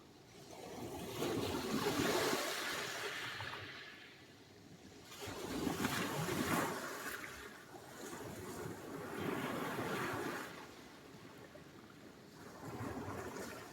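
Sea surf: waves breaking in four swells of rushing water noise, each rising and dying away over a couple of seconds.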